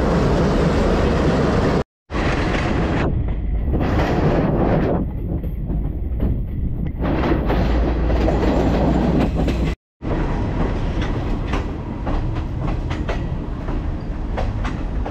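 Class S12 diesel multiple unit running along the line, heard from an open doorway of the carriage: a dense, steady rumble of wheels and engine, with quick clicks of the wheels over the rail joints in the last few seconds.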